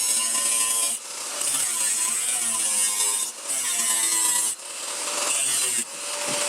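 Hand-held power tool working on car-body sheet steel in repeated passes of about a second each. Its motor pitch sags and recovers as it loads against the metal.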